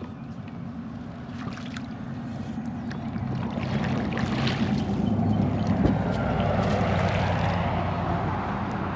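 Kayak under way on the water: water noise with a low steady hum beneath it, growing louder from about three seconds in.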